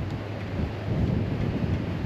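Wind buffeting the microphone: a continuous low rumble that surges and dips unevenly, with a steady low hum underneath.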